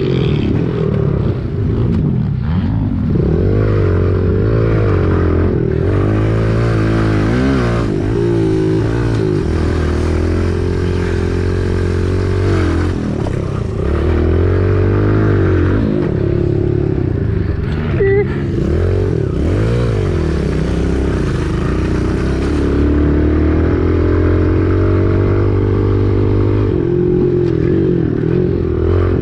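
Kawasaki KLX110 pit bike's small single-cylinder four-stroke engine revving hard and easing off over and over while being ridden, its pitch climbing and dropping continuously.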